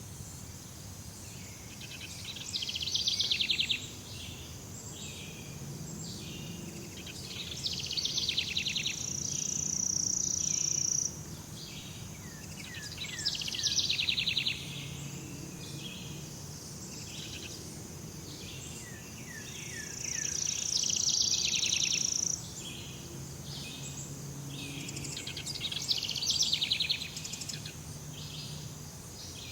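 Tropical jungle ambience of birds and insects: a loud, fast pulsing call repeats five times, about every five to six seconds, twice running on into a steady high-pitched whine. A constant high hiss of insects lies underneath.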